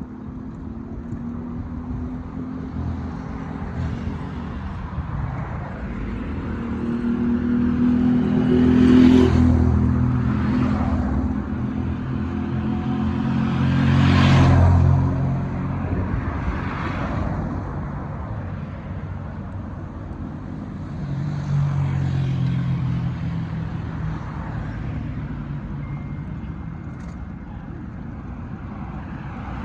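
Road traffic: car engines running, with vehicles passing. The loudest passes swell up and fade about nine and fourteen seconds in, and a smaller one comes about twenty-two seconds in.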